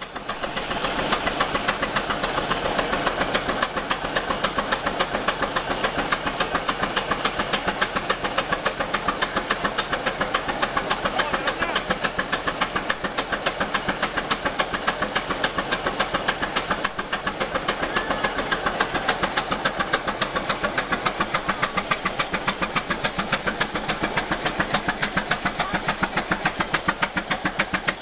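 Opposed two-cylinder engine of a 20-40 Case gas tractor running steadily, its exhaust beat an even, rapid train of pops.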